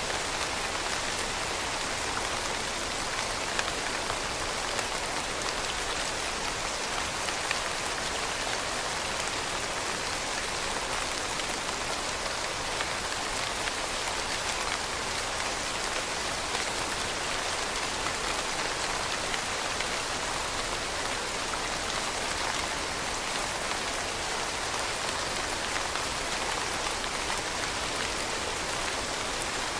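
Steady rain pattering on leaves, a dense even hiss of countless small drops, with a few slightly louder drops now and then.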